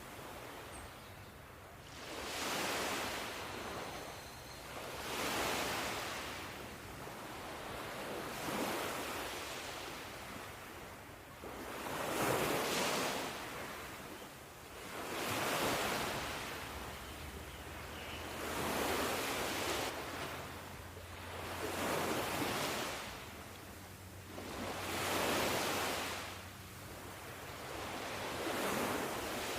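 Ocean surf: waves washing in, one after another, in regular surges about every three seconds.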